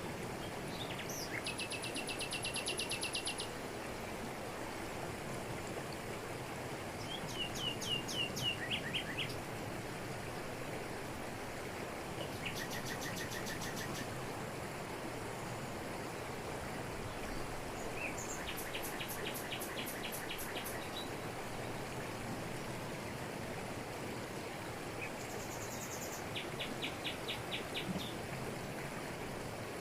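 Steady rush of a jungle waterfall falling onto rocks, with songbirds calling over it in five short bouts of rapid high trills, some falling in pitch.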